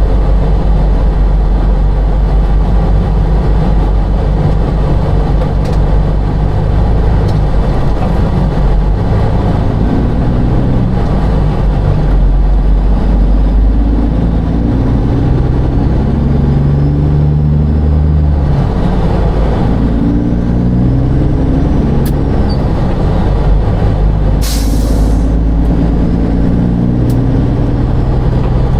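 Semi truck's diesel engine running under load with a low rumble, with a short hiss of air about 24 seconds in.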